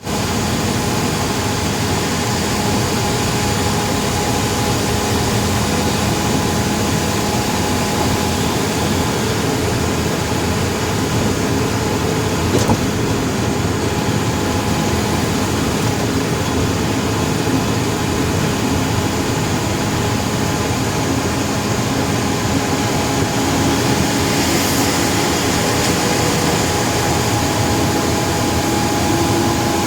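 Steady engine and road noise of a vehicle driving along a highway, with a faint constant hum under it and one brief click about halfway through.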